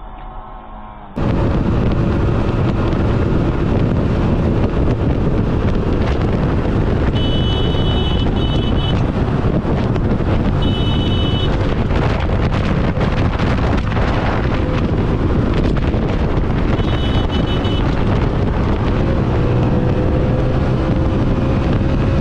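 Loud, steady wind and road rush on a vehicle-mounted camera's microphone, starting suddenly about a second in. High electronic beeping comes three times in short runs.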